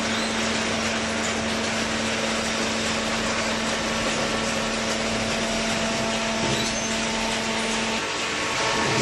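Hydraulic power unit of a double-cylinder vertical carton baler running: a steady mechanical hiss with a steady hum that drops out about eight seconds in.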